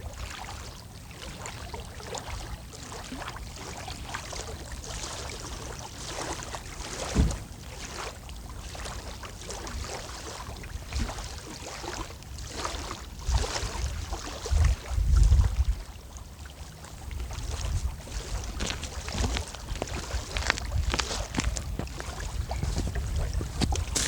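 Small waves lapping and splashing at the water's edge, with wind gusting on the microphone in low rumbles and a single thump about seven seconds in.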